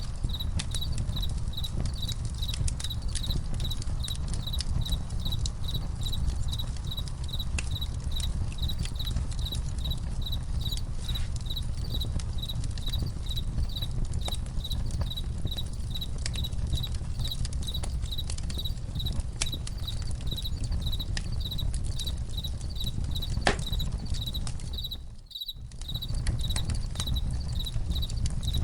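Campfire crackling with irregular sharp pops over a low rumble, while crickets chirp steadily at about two chirps a second. The whole sound drops out briefly about 25 seconds in.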